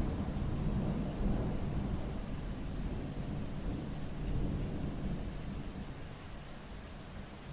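Steady rain with a low rumble of thunder that dies away over several seconds.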